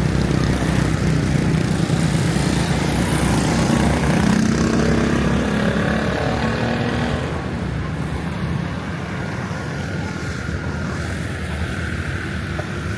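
Street traffic with a motor vehicle engine running close by, loudest in the first half and easing off about seven seconds in, leaving general traffic noise.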